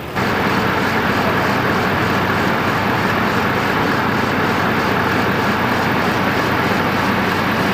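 Loud, steady engine noise that starts and stops abruptly.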